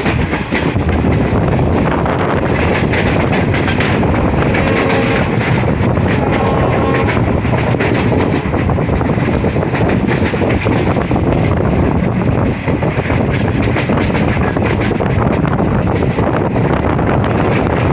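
Train running at speed, a steady loud rumble and rattle of wheels on track.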